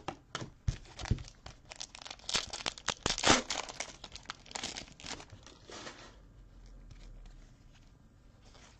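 Foil trading-card pack wrapper crinkling and tearing open as cards are handled, a dense crackle that is loudest around the middle and dies away about six seconds in.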